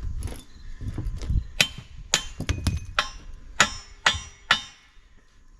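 Hammer striking steel on an excavator thumb's pin and bracket: about eight sharp metallic strikes with short ringing, coming in quick uneven succession and stopping about a second before the end. A low rumble runs under the first second or so.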